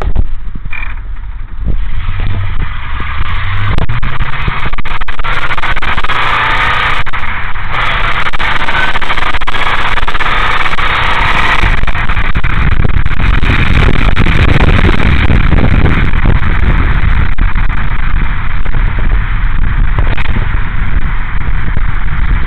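Flathead V8 of a Ford Model A hot rod running under way, heard from the open cockpit with heavy wind rush on the microphone. The engine's low rumble grows stronger about halfway through as the wind hiss eases.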